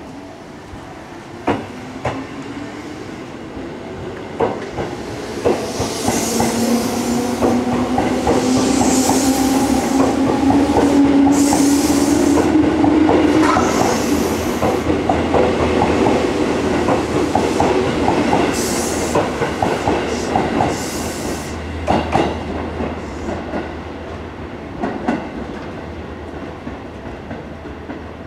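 Seibu 10000 series 'New Red Arrow' limited express train pulling away from a station. A motor whine rises in pitch as it accelerates, and the wheels clack over rail joints. It grows loudest about halfway through as the cars pass, then fades as the train draws away.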